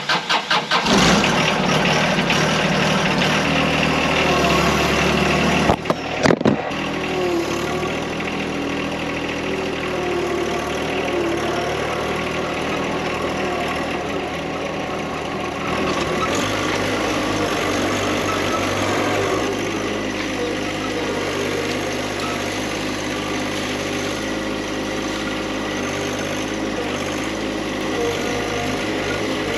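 Tractor engine being cranked by its starter, catching about a second in and then running steadily, its note shifting about halfway through.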